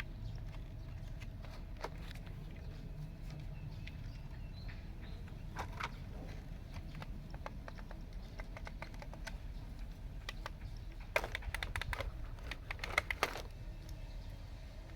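Remote-control toy bulldozer working, with irregular clicks and rattles over a faint steady hum and low rumble; near the end comes a quick run of clicking and rattling.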